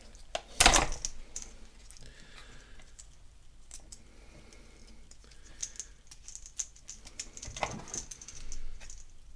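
Scattered small clicks and taps from hand-fitting a replacement motor run capacitor and its two push-on connectors in a pressure washer's plastic electrical box. The sharpest click comes about a second in, and a louder knock and rustle come near the end.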